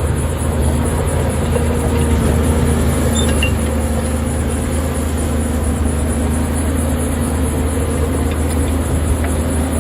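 Heavy earth-moving machinery's diesel engine running steadily, a constant low drone.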